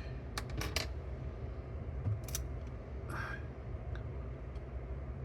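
Light metallic clicks and taps of small parts in a Pioneer T-838 cassette deck's tape transport mechanism being handled as a split ring is aligned on its shaft; a few scattered sharp clicks.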